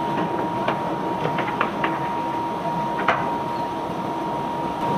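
Steady machinery noise with a constant high whine, and scattered sharp clinks and knocks, the loudest about three seconds in.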